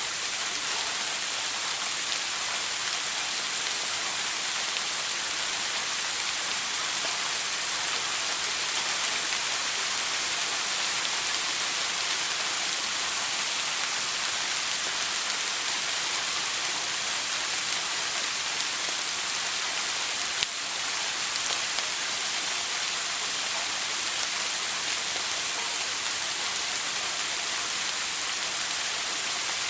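Shower water spraying and pattering steadily, an even hiss with no change.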